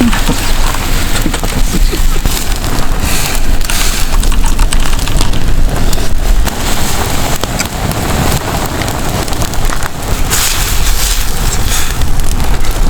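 Wood fire crackling, with dense sharp pops over a steady hiss.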